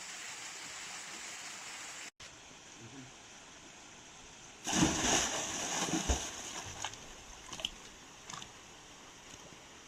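Running stream water, a steady hiss that cuts off abruptly about two seconds in and returns quieter, then a louder stretch of splashing with a few knocks in the middle before it settles again.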